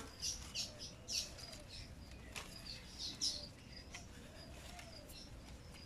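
Small birds chirping in short, repeated high calls, with one sharp click about two and a half seconds in.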